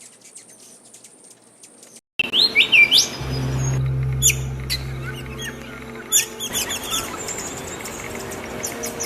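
Small birds chirping and twittering in quick, repeated high notes, faint at first and then much louder after an abrupt cut about two seconds in. A steady low hum sits under the chirping for a few seconds in the middle.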